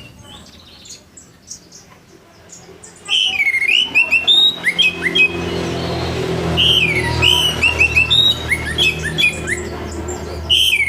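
Orange-headed thrush singing its loud full song: quick, varied phrases of sweeping up-and-down whistled notes, starting about three seconds in after a few faint chirps.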